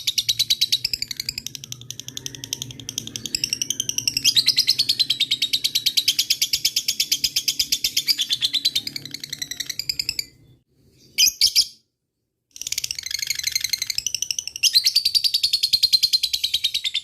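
Lovebird giving its long 'ngekek' chattering trill: a rapid, even run of shrill pulses. It breaks off about ten seconds in, gives one short burst, then resumes.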